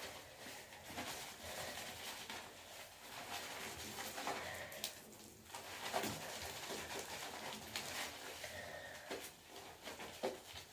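Hands rubbing shampoo lather through wet hair: soft, uneven squishing and rustling with a few light knocks.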